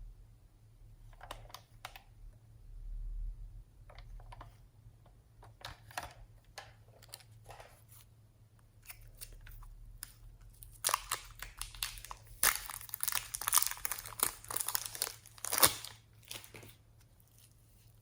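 Slime being handled and mixed by hand: sticky crackles and squelches, scattered at first, then a dense, louder run of crackling from about 11 to 16 seconds in.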